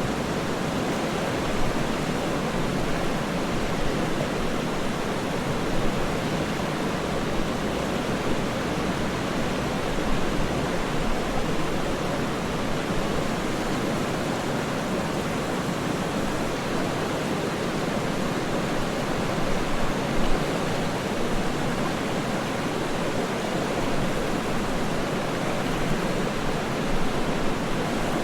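Waterfall rushing: a steady, even wash of falling water with small splashy flickers in level.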